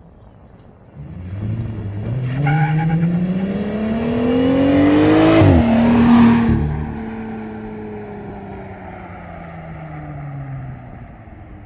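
Jeep Gladiator engine through its muffler-deleted exhaust, with the resonator kept, accelerating hard. The pitch climbs steadily for about four seconds, drops suddenly near the middle, then falls slowly and fades as the Jeep eases off.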